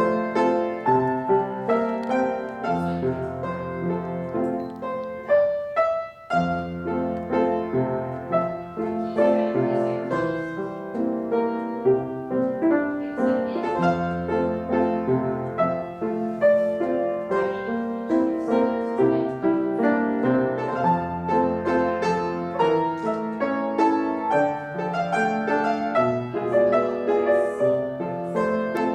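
Ballet-class piano accompaniment: classical-style piano playing in a steady, even rhythm, with a brief break about six seconds in.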